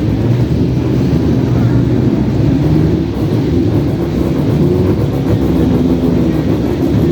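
Sports car engines running steadily at low revs, their low engine note drifting slightly in pitch.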